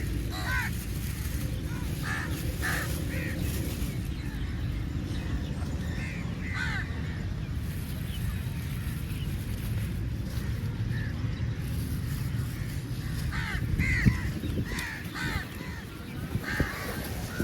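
Crows cawing off and on: scattered short calls, several bunched together a little after halfway, over a steady low rumble. A single sharp knock about fourteen seconds in is the loudest moment.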